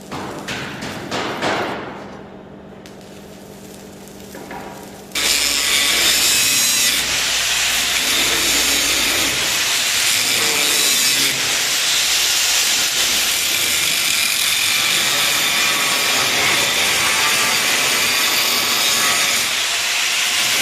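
Power tool running against sheet steel, a loud steady grinding hiss that starts suddenly about five seconds in and holds.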